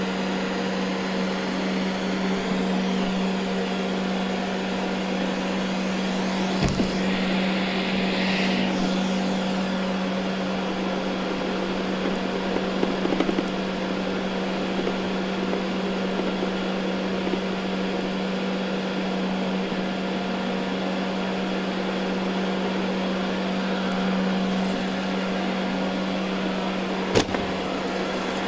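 Ecovacs Deebot N79 robot vacuum running steadily over carpet, a constant hum over the rush of its suction. Two sharp knocks cut through it, one about a quarter of the way in and one near the end.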